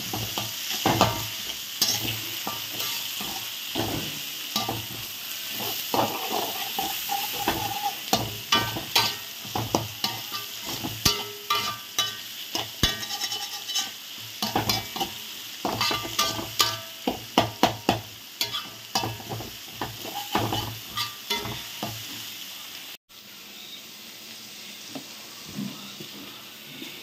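Sliced onions, garlic, green chillies and curry leaves sizzling in hot oil in an aluminium kadai, with a metal spatula stirring them and scraping and clacking against the pan. About twenty-three seconds in the frying sound cuts off abruptly, leaving only a faint steady background.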